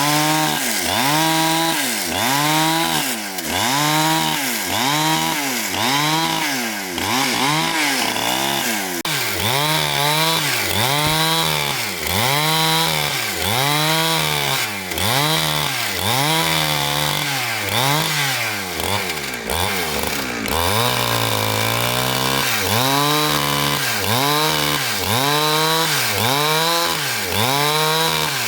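Petrol chainsaw cutting wood, its engine pitch rising and falling about once a second as it works through the cut. Shortly past two-thirds of the way through, the pitch drops to a lower, steadier note for about a second before the cycling resumes.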